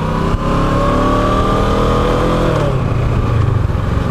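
Kawasaki Ninja 650's parallel-twin engine pulling under way, its pitch rising slowly for about two and a half seconds, then dropping and running on steadily.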